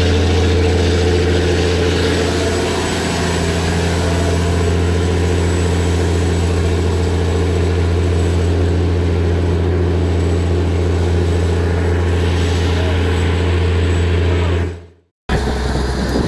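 Motor boat's engine running steadily with a low, even drone. It cuts out abruptly about a second before the end, then a similar engine sound resumes at a lower, different tone.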